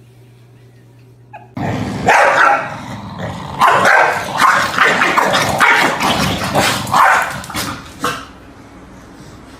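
A dog barking over and over, starting about a second and a half in and going on for about six seconds before stopping.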